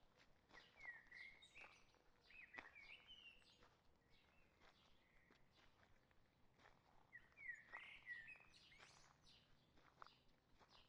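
Faint footsteps on a forest trail, step after step, with a bird singing short warbling phrases three times over them.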